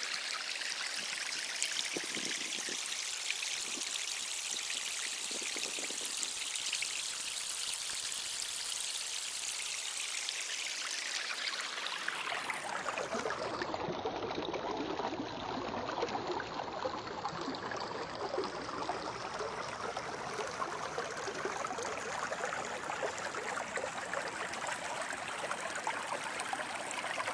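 Flowing stream water, a steady rushing with no pauses. About halfway through it turns fuller and lower in pitch.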